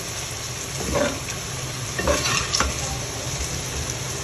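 Gram-flour-coated okra sizzling in hot oil in an aluminium pan, with a steady frying hiss. A metal spoon stirs it, scraping and knocking against the pan a few times.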